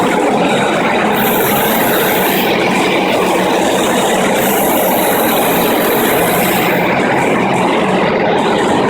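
FastPrep concrete floor grinder running, its 16-grit diamond grinding plates cutting into a concrete floor with a loud, steady grinding noise.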